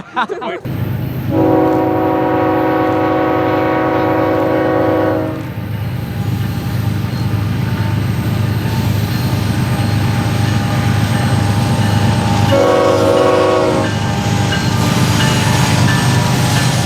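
A locomotive's multi-note chime sounds one long blast of about four seconds, then about eight seconds later a short blast of about a second, over the steady rumble and wheel clatter of a passing train.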